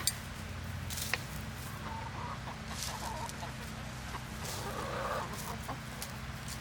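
Chickens clucking in short, soft calls, with a couple of sharp clicks near the start and a steady low hum underneath.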